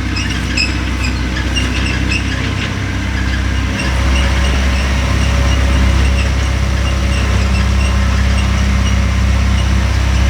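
A vehicle engine running steadily under way, with scattered rattling clicks; it gets louder about four seconds in.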